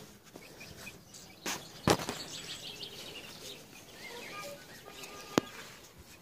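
Faint bird chirps over quiet outdoor ambience, broken by a few sharp clicks, the loudest about two seconds in and another about five seconds in.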